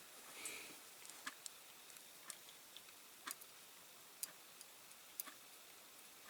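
Faint, irregular small clicks and taps, about one a second, as a stick and the die-cast toy model are handled while glue is dabbed on; otherwise near silence.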